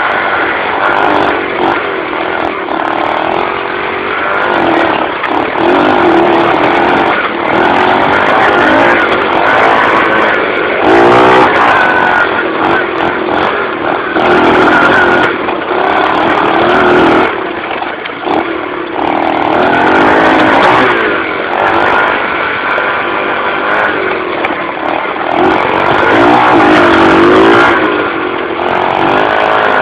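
Dirt bike engine revving up and down repeatedly as it is ridden over a trail, its pitch rising and falling every few seconds.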